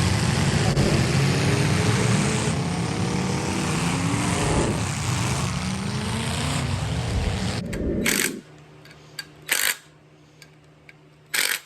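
A motor vehicle's engine running, its pitch rising and falling, until it cuts off abruptly about eight seconds in. After that there is a quiet steady hum and two brief rushes of noise.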